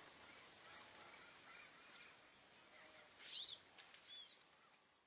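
Faint countryside ambience: a steady high-pitched insect drone with a bird calling. About three seconds in comes a quick run of falling chirps, the loudest moment, then three short chirped notes, before it all fades away near the end.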